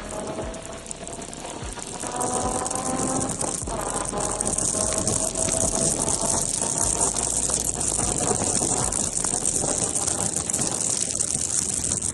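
A car engine's note, fading away over the first few seconds, then a steady high-pitched hiss of rain and wet-road noise.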